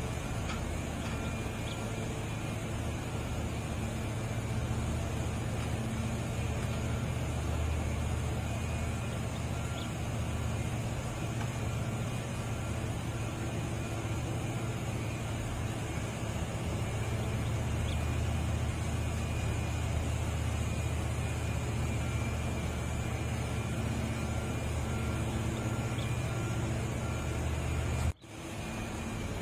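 Heavy diesel engine of a truck or excavator running steadily at a constant pace, with a brief sharp dropout near the end.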